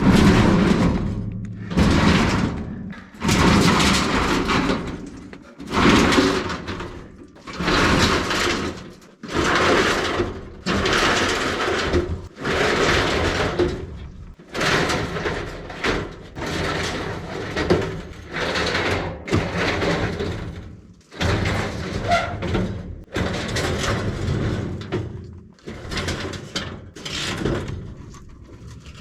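Sheet-metal furnace parts scraping and sliding in a series of rough pulls, one every second or two, with occasional knocks.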